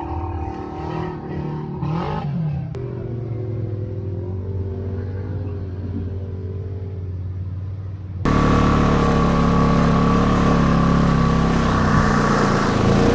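ATV engine running steadily while riding. About eight seconds in, the sound jumps abruptly louder, with more rushing noise over the engine.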